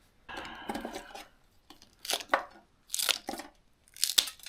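Plastic seasoning packets crinkling and being torn open: a rustle at first, then several short tearing rips.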